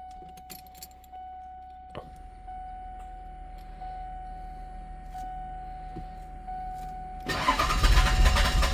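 A steady high electronic tone with a few light clicks, then about seven seconds in a diesel car's starter motor begins cranking the engine loudly. The diesel is hard-starting even with working glow plugs.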